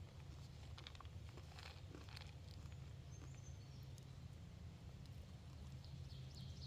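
Quiet woodland ambience: a steady low rumble of wind on the microphone, faint scattered rustles and ticks, and a brief faint bird chirp about halfway through.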